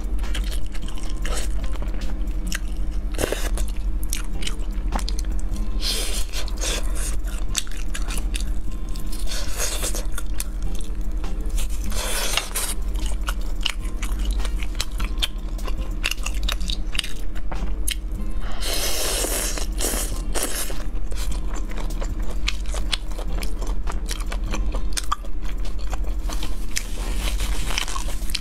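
Close-miked eating of spicy fried skewers, mostly green chili peppers: repeated bites, crunches and wet chewing with mouth clicks. About two-thirds through there is a brief louder hissing burst.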